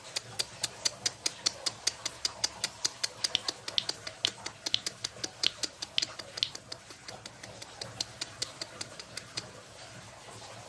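A small green leafbird (ijo mini) making a rapid run of sharp clicks and short ticking chips, about four a second, while it feeds on crickets. The clicks thin out and grow fainter over the last few seconds.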